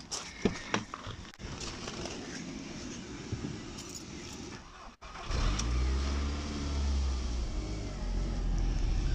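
Clicks and keys jangling as the car door is opened and the key goes to the ignition. Then, about five seconds in, the Audi TT's 1.8-litre turbocharged four-cylinder engine is running at a steady idle on a newly fitted throttle body that has not yet been adapted.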